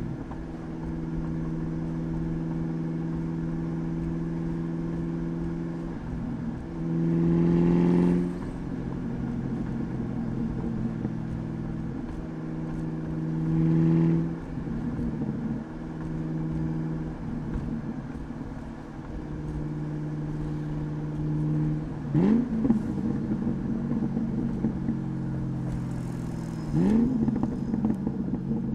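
2003 Ford SVT Cobra 'Terminator' Mustang's supercharged 4.6-litre V8 through a Bassani cat-back exhaust, recorded by an external mic, running at a steady cruising note. The exhaust swells briefly twice under throttle, and near the end it revs up quickly twice.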